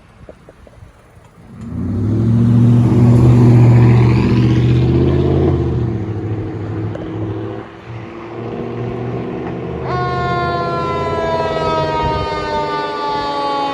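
Fire engine pulling away, its diesel engine revving loud from about a second and a half in, then easing. About ten seconds in, a siren starts with one held tone that slowly falls in pitch.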